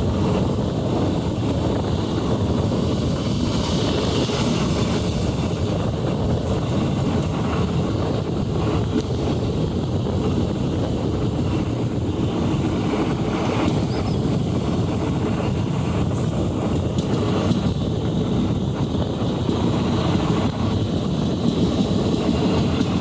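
Steady running rumble of a train in motion, with wind noise on the microphone.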